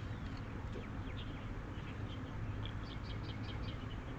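Small birds chirping in short, high notes, with a quick run of chirps about three seconds in, over a steady low background rumble.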